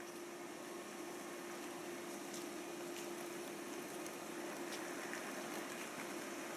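Electric train running with a steady hum over a rising rush of running noise, growing slowly louder as it draws nearer, with a few faint clicks.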